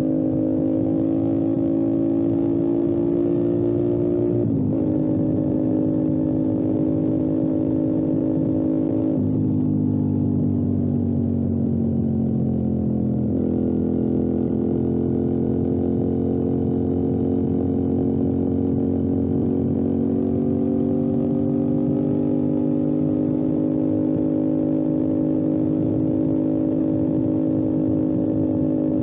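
Motorcycle engine pulling steadily while riding, its pitch creeping up, dropping sharply at a gear change about four and a half seconds in, sinking from about nine seconds as it slows, then settling into a steady cruise.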